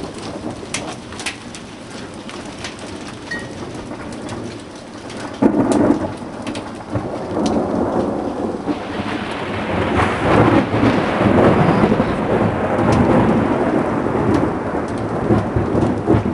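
Thunderstorm. Heavy rain falls with sharp ticks of what sounds like hail striking. About five and a half seconds in a sudden loud clap of thunder breaks, and from about nine seconds a long, loud rumble of thunder rolls on.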